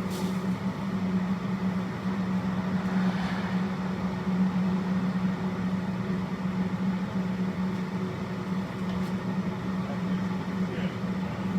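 Steady mechanical hum of food-truck equipment running, with a constant low drone and no change in pitch or level.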